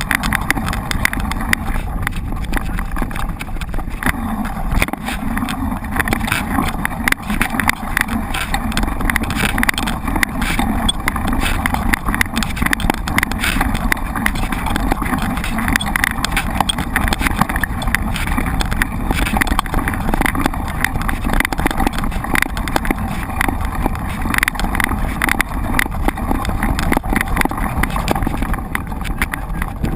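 Mountain bike being ridden over rough ground, with a steady rush of noise and constant rattling and knocking from the bike.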